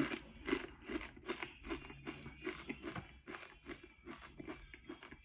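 A person chewing a crunchy chip close to the microphone, about two to three crunches a second, growing fainter toward the end.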